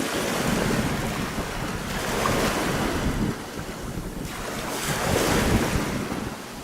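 Small sea waves breaking and washing up over small pebbles, coming in two surges a few seconds apart, with wind rumbling on the microphone.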